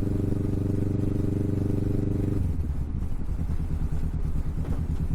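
Kawasaki Vulcan S 649 cc parallel-twin engine running through an aftermarket Hoonk twin exhaust while riding. It pulls steadily, then about two and a half seconds in the revs drop to a lower, pulsing beat.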